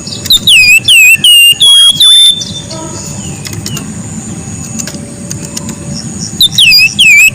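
Flamboyan bird singing its 'tembakan': a rapid series of sharp, whistled notes, each sliding down and flicking back up, about five in the first two seconds and another burst near the end. The notes are loud enough that the recording clips.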